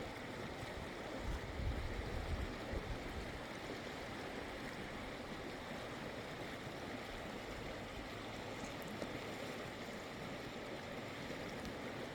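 Steady rushing of the Klamath River flowing below Iron Gate, with brief low rumbling about one to three seconds in.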